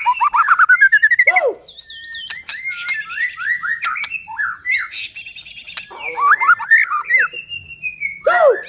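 White-rumped shama (murai batu) singing a fast, varied song: a quick run of rising whistled notes at the start, then slurred whistles mixed with harsh rattling notes.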